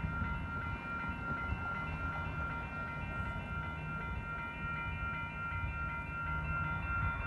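Three Union Pacific diesel locomotives (SD70M, AC44CW and ET44AC) running as a light power move, a steady low engine rumble with a thin steady high whine over it.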